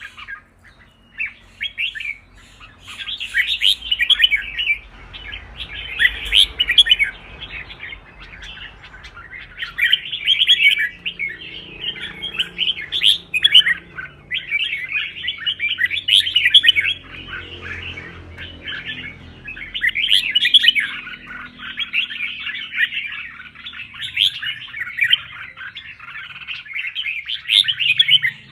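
Red-whiskered bulbul singing its competitive song: quick chattering phrases, each a second or two long, one after another with short gaps.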